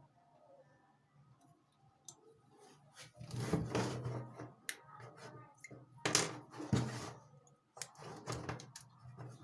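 Handling noises at a workbench: scattered small clicks and knocks, with two longer stretches of rubbing or scraping, about three seconds in and again about six seconds in.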